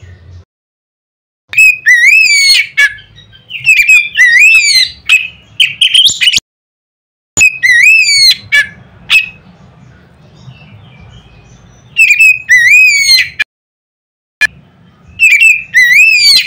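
Oriental magpie-robin (kacer) song, played loud as a recording meant to set other kacer singing. It comes as five bursts of loud whistled phrases that swoop up and down in pitch, broken by short gaps that drop to dead silence.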